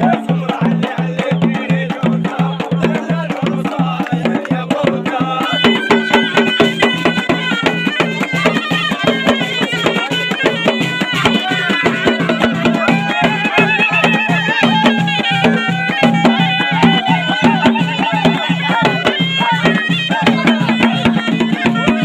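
Traditional ghaita (double-reed shawm) folk music: a reedy, ornamented melody over a steady low held note and a fast, regular drumbeat. The melody comes in more strongly about five seconds in.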